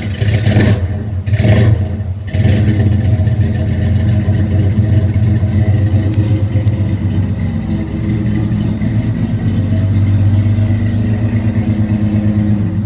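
A 1966 Chevrolet C10 engine, just started, runs through true dual exhaust with 2.5-inch pipes and Flowmaster 40 mufflers. It gets three quick blips of throttle in the first couple of seconds, then settles into a steady, rhythmic idle.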